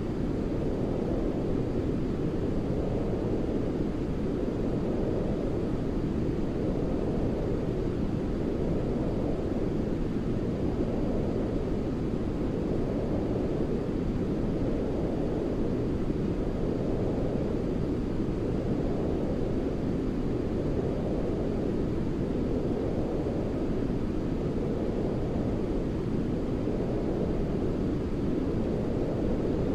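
Steady, deep rushing noise from a white-noise sleep track, weighted toward the low end like brown noise, swelling gently about every four seconds.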